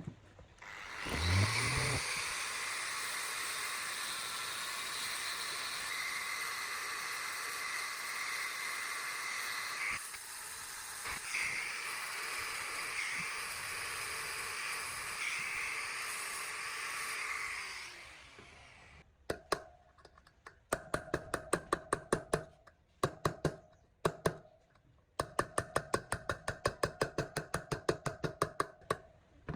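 A handheld power tool in metalwork spins up, runs steadily with a high hissing whine for about seventeen seconds, then winds down. After that come quick, regular scraping or clicking strokes on metal, about five a second, in two runs with a short pause between.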